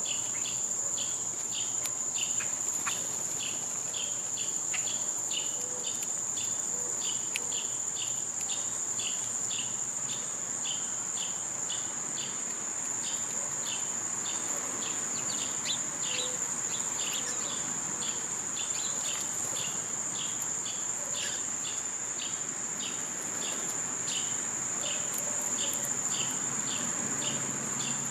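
Chorus of summer insects: one unbroken high-pitched trill, with a lower chirp pulsing steadily about twice a second.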